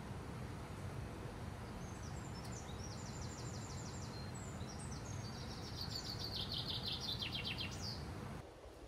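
A songbird singing two trilled phrases of rapidly repeated high notes, the second louder, over a steady low outdoor background noise that drops away suddenly near the end.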